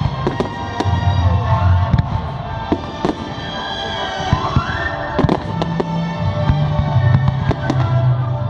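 Fireworks display: many rapid bangs and crackles from bursting shells, over music played through loudspeakers.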